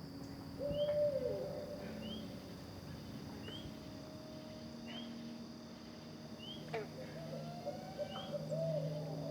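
An owl hooting: one held hoot just under a second in that slides down at its end, then a wavering run of hoots near the end. Under it runs a steady insect drone and a short high chirp repeating about once a second.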